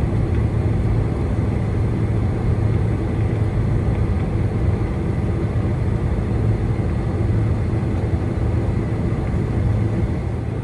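Steady cabin noise aboard a Boeing 747-400: engine and airflow sound heard from inside the passenger cabin, a constant low hum under an even rush.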